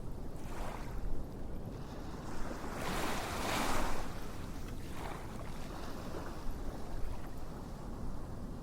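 Rushing noise that swells and fades like surf washing in, with the biggest swell about three to four seconds in.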